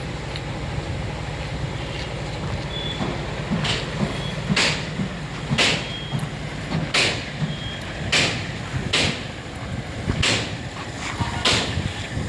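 A steady low engine rumble, with short noisy bursts about once a second from about four seconds in.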